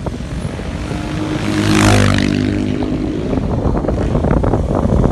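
Motorcycle ride: a KTM Duke 200's single-cylinder engine running on the road with traffic noise, loudest about two seconds in, where a vehicle passes close.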